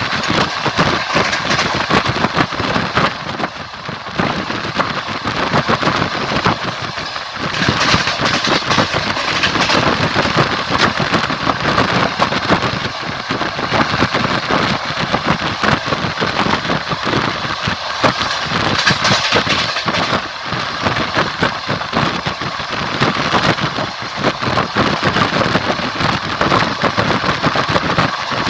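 Passenger train running at speed: wheels clattering over the rail joints on top of a steady rolling rumble and rush of noise.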